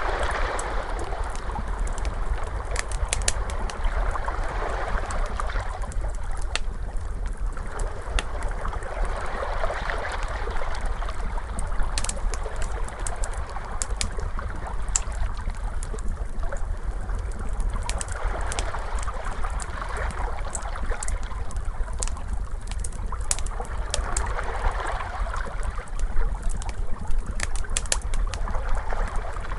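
Ocean waves washing in, swelling and fading every few seconds over a steady low rumble, mixed with a crackling fire's sharp scattered pops and snaps.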